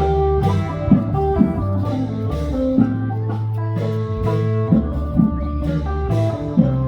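Loud band music: a plucked-string melody, tagged as guitar, over sustained bass notes, punctuated by drum hits.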